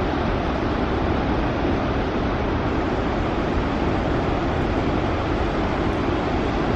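Steady roar of a large volume of water rushing out through a just-opened dam into the river below.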